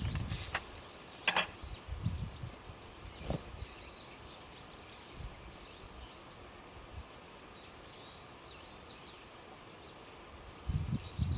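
A small songbird calling repeatedly with short, arched chirps. Sharp clicks come about a second in and again a little after three seconds, with low rustling at the start.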